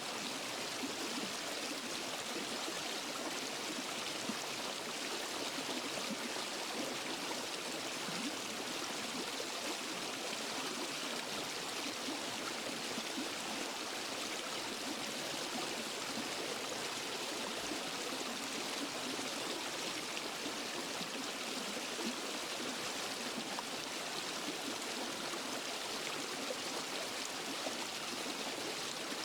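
Waterfall and forest stream: water rushing and splashing over rocks in a steady, unbroken hiss.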